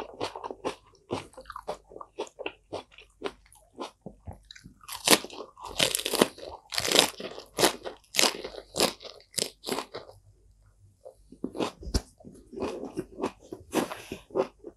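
Close-miked biting and chewing of crisp lettuce leaves, a dense run of sharp, wet crunches. The loudest crunches come a third of the way in, and there is a brief pause about two-thirds through.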